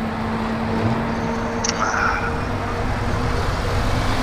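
Steady wind and road noise from riding an e-bike in street traffic, with a low steady hum that fades out about halfway through.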